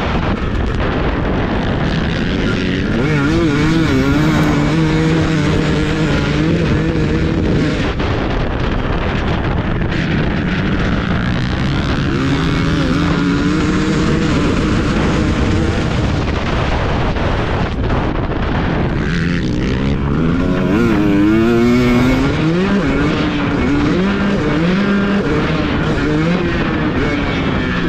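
Husqvarna TC250 motocross bike engine ridden hard on a dirt track, its pitch rising and falling repeatedly as the throttle is opened and shut through the turns and jumps.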